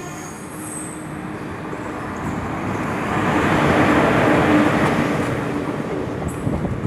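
Passenger express train arriving and running past on the tracks, growing louder to a peak about four seconds in and then easing off, with a faint steady hum underneath.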